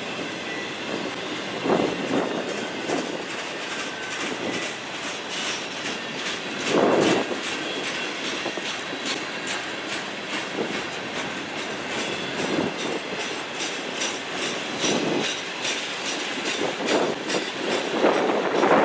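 Freight cars of a passing train (autoracks, covered hoppers and tank cars) rolling by: a steady rumble with wheels clicking over rail joints at about three clicks a second, and a few short louder surges.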